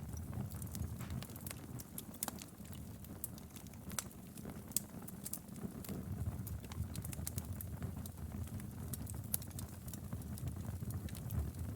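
Wood fire crackling in a fireplace: irregular sharp pops and snaps, many a second, over a low steady rumble of burning logs.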